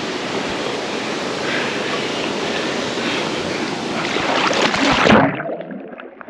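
Steady rush of a waterfall pouring into a pool, with splashing growing louder near the end. Then, about five seconds in, the sound suddenly turns muffled and drops.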